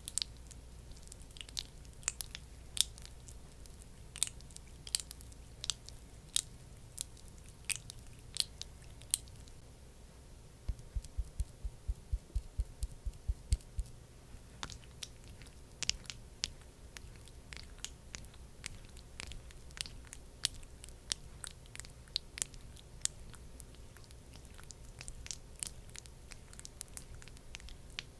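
Close-miked skincare ASMR trigger sounds: irregular sticky, crisp clicks and taps, like thick cream being worked and patted. A quick run of about a dozen heavier taps comes in the middle, around four a second.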